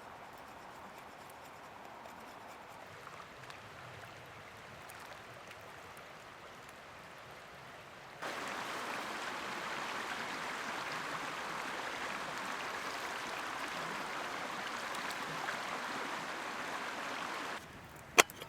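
Faint outdoor ambience, then, from about eight seconds in, the steady rush of flowing river water, which cuts off abruptly near the end. A single sharp click follows.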